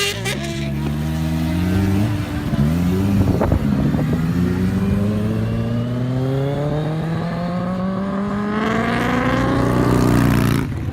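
Kawasaki Ninja H2's supercharged inline-four through a Brock's exhaust, accelerating through the gears. The pitch climbs and drops at quick upshifts in the first three seconds, then rises steadily in one long pull and is loudest just before it cuts off at the end.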